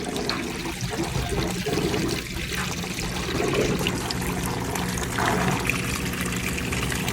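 Kenmore Series 100 HE top-load washing machine draining: the drain pump hums steadily while water rushes and gurgles out, the drain stage before the rinse cycle.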